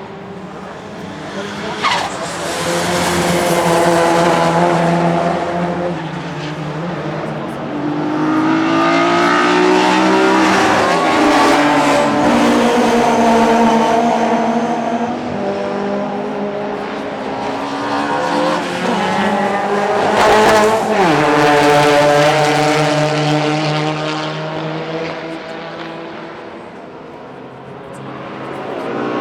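Classic DTM touring-car race engines passing one after another in several loud waves, the engine note climbing and dropping in pitch as each car goes by, with a sharp drop in pitch about twenty seconds in.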